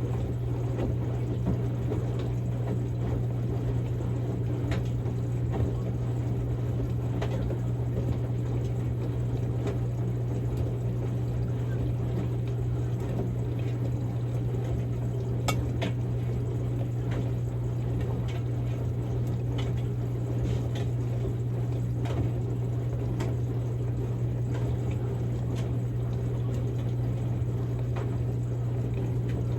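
Samsung Grande washing machine washing a padded jacket on its quick-wash course: water sloshing in the turning drum over a steady motor hum, with scattered light clicks.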